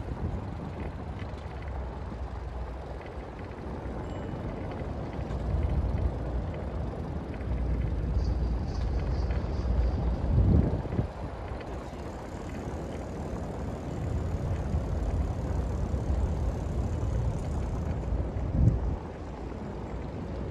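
Wind buffeting the microphone over a steady low rumble of city traffic, with stronger gusts about halfway through and near the end.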